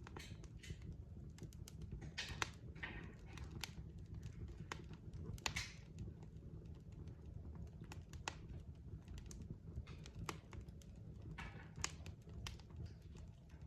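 Wood fire in a fireplace crackling: irregular sharp pops and snaps over a low steady rumble of the flames, with a few brief hissing flare-ups.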